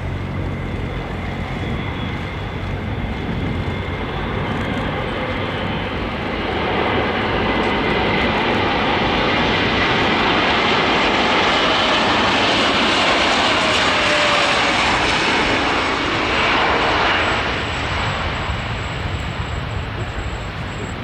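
Airbus A400M Atlas's four turboprop engines running loud, swelling about seven seconds in and easing off after about seventeen seconds.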